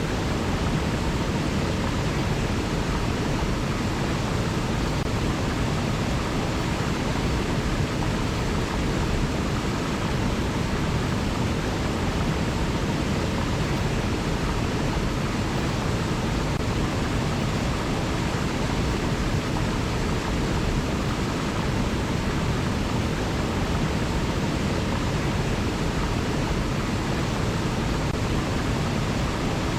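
A river flowing: a steady, even rush of water with no breaks or changes.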